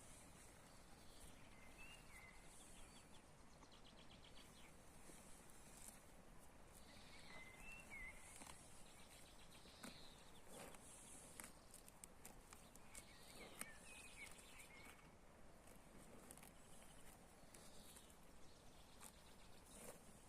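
Faint outdoor ambience: a quiet background hiss with a few short bird chirps, about three brief phrases spread through it, and a scattering of faint clicks.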